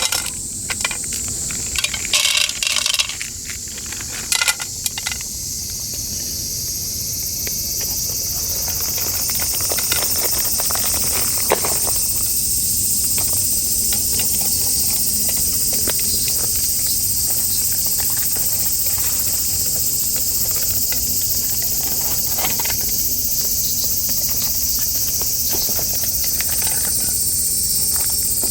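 Steady, high-pitched chorus of insects droning outdoors, growing louder about eight seconds in and then holding. A few short clicks and rustles come in the first few seconds.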